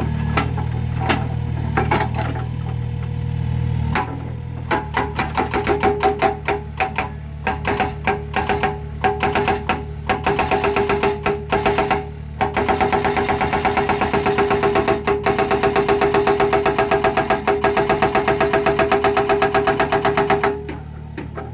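Mini excavator's engine running under a hydraulic breaker hammering concrete. Short runs of rapid blows start about four seconds in, then a continuous fast hammering sets in at about twelve seconds and stops shortly before the end.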